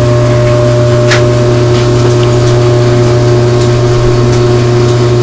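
Forced-air shop heater running with a loud, steady drone, with a few faint knocks of work on the minibike now and then.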